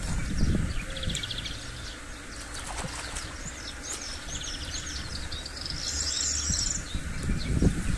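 Small birds singing, with repeated short trills and runs of quick chirps, over low rumbling noise that swells near the start and is loudest near the end.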